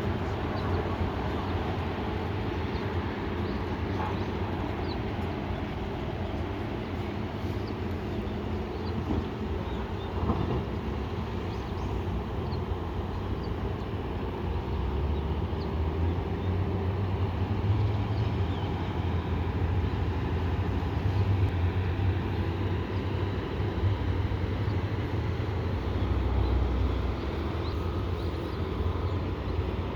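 A fishing boat's engine running with a steady low drone, growing somewhat louder from about halfway in.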